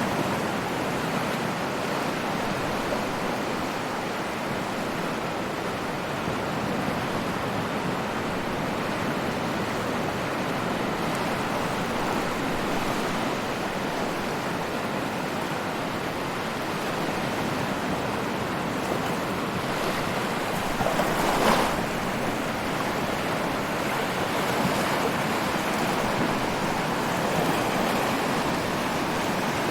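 Ocean surf washing steadily, a continuous rush of water with one brief louder wave crash about two-thirds of the way through.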